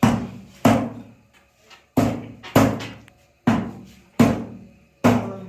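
A butcher's cleaver chopping chicken on a chopping block: seven heavy, sharp chops at uneven intervals of about half a second to a second and a half, each dying away quickly.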